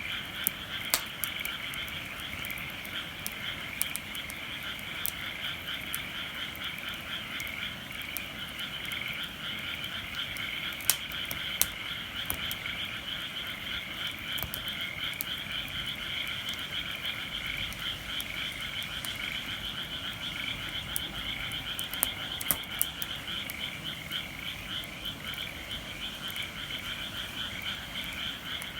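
A dense chorus of many frogs calling at once, rapid pulsing croaks overlapping without a break, with scattered sharp cracks from burning firewood.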